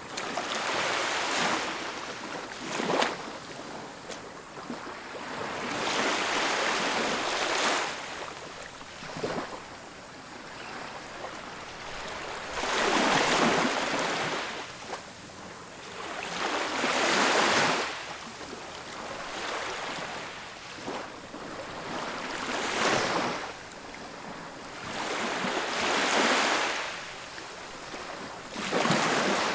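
Ocean waves breaking and washing up a beach, each surge of surf swelling and fading every few seconds, with a few sharp crashes in between.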